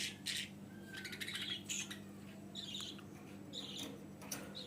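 Budgerigars chirping softly in short, scattered calls, over a faint steady hum.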